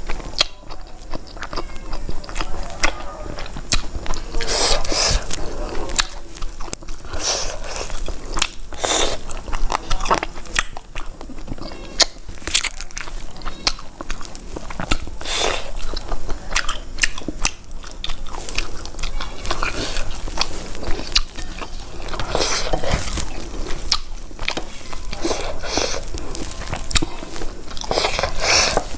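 Close-miked eating sounds: wet chewing and mouth sounds in irregular bursts, with occasional crunches. Fingers squelch food against a steel plate as she eats by hand.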